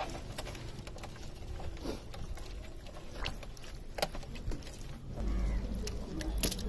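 Birds calling in the background, with a few sharp clicks, the loudest about four seconds in and near the end.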